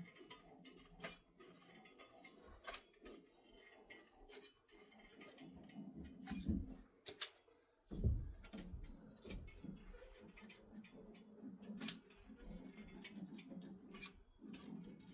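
Scattered small clicks and ticks of a caulking gun being worked to lay a bead of construction adhesive along wood, with a dull thump about eight seconds in.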